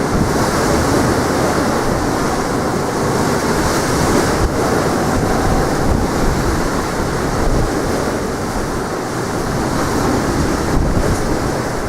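Sea waves washing onto the shore in strong wind, with gusts buffeting the microphone as a steady low rumble.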